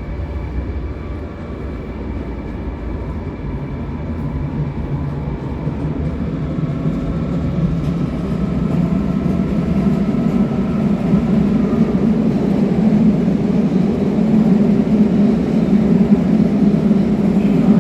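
Train running past a station platform, its rumble growing steadily louder through the second half.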